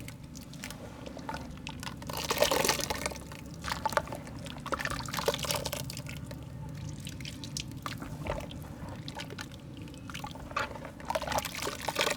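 Soft wet mud being crumbled and squished, with wet squelching, dripping and crackling in irregular clusters. There is a louder burst about two seconds in.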